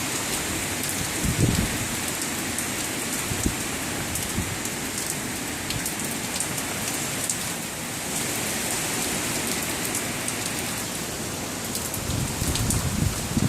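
Hurricane rain and gusty wind: a steady hiss of heavy rain with raindrops ticking on the phone, and wind buffeting the microphone in low rumbling swells about a second and a half in and again near the end.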